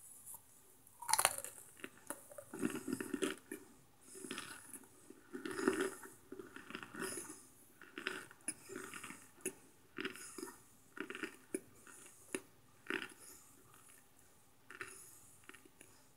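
Microwaved cornstarch chunks being bitten and chewed: a loud crunch about a second in, then repeated crisp crunching that thins out near the end.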